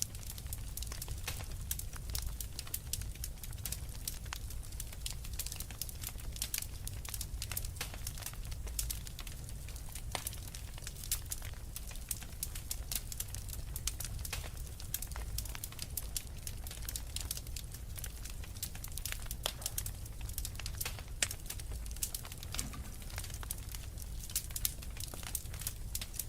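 Log fire in a fireplace crackling: many irregular sharp pops and snaps over a steady low rumble of burning wood.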